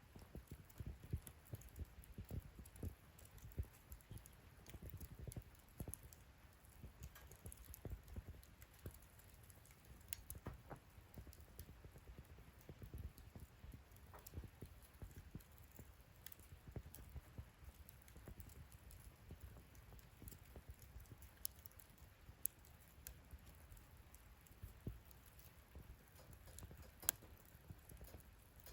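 Wood fire in a fire pit stand crackling quietly, with scattered small pops and snaps over a low rumble of the flames. One sharper crack comes near the end.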